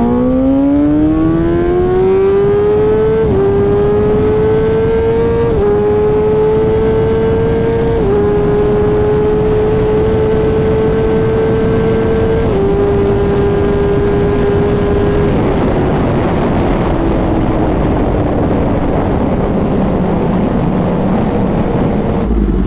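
Inline-four sportbike engine at full throttle, revving high and shifting up four times in quick succession, each shift a brief small dip in pitch. Past the middle the throttle is rolled off and the note slowly falls.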